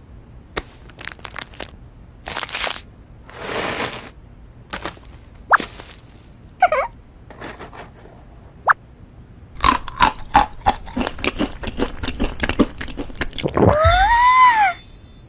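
Crisp, crunchy food being handled and broken: scattered sharp cracks and crunches, with a dense run of crunching in the second half. Near the end there is a short squeaky sound that rises and then falls in pitch.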